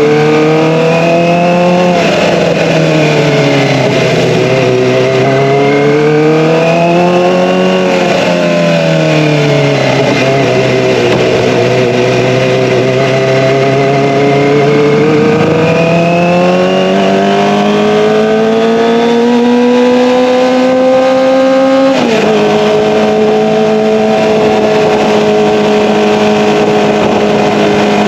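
Kawasaki ZX-25R's 250 cc inline-four running through an Akrapovic Evolution exhaust, its note rising and falling with the throttle while riding. About three-quarters of the way through the pitch drops suddenly, as at an upshift, then holds steady.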